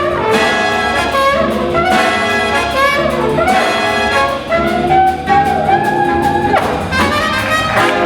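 Jazz big band playing, led by its brass section: trumpets and trombones holding and shifting loud chords.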